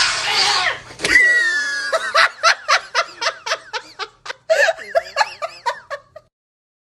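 A person laughing hard in a rapid run of high-pitched bursts, about four a second, after a short noisy outburst at the start; the laughter cuts off about six seconds in.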